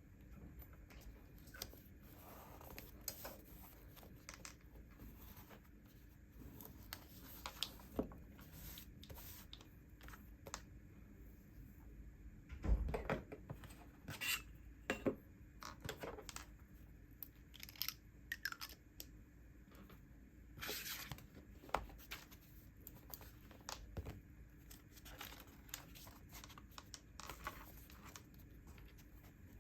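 Paper and stationery being handled on a desk: scattered rustles, tearing and crinkling of paper and tape, and small taps, with one louder knock about halfway through.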